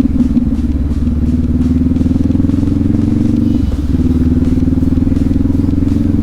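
Adventure motorcycle engine running steadily at low revs while riding a trail, easing off briefly a little past halfway and then pulling again.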